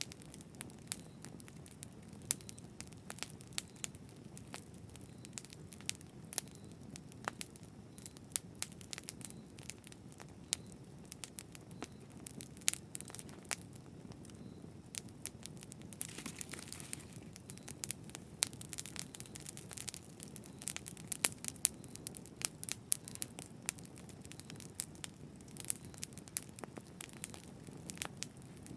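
Campfire burning: steady low rumble of the flames with frequent irregular sharp crackles and pops of burning wood, and a brief hiss about sixteen seconds in.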